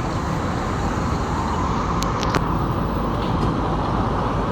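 Steady road traffic noise, with a few sharp clicks about two seconds in.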